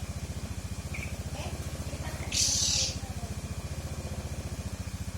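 Steady low pulsing hum of an idling engine. About halfway through comes a short, loud, harsh rasp, with a couple of faint short chirps before it.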